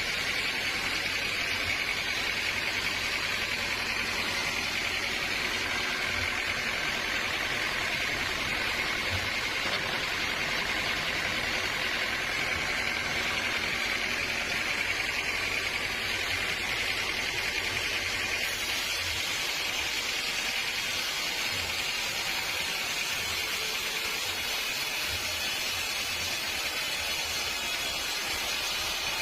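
Sawmill machinery running steadily: an even, continuous rushing noise that keeps the same level throughout.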